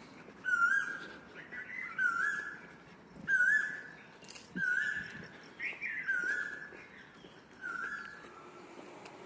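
Asian koel calling: a repeated two-part whistled call, about six times, each note sliding up and then holding, one every second and a half or so, with a few shorter higher notes from birds in between.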